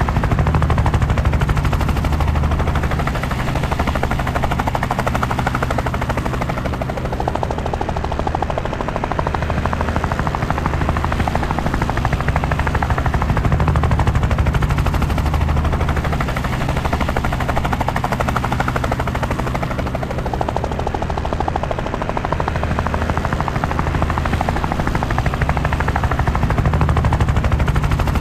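Helicopter rotor and engine running steadily: a rapid, even chop of the blades over a low drone, swelling and easing slowly in loudness.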